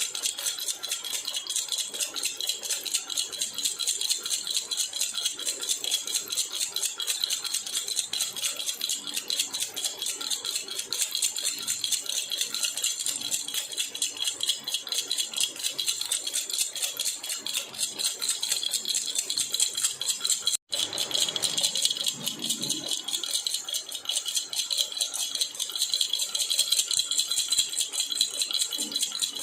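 Jhunjhuna baby rattle shaken continuously in a fast, even jingle, cutting out for an instant about two-thirds of the way through.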